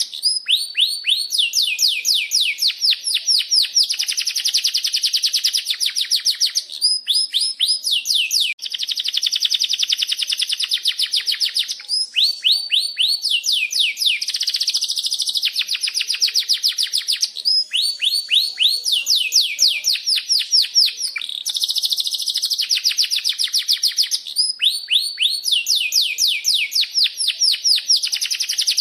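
Domestic canary singing a long, loud rolling song: fast trills of repeated chirping notes, each run switching to a new note type every second or two, with only brief breaks.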